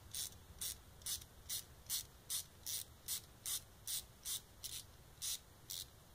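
Rapid, even back-and-forth rubbing strokes, about two and a half a second, of hand-abrading a 3D-printed stainless steel part to take material off; the strokes stop shortly before the end.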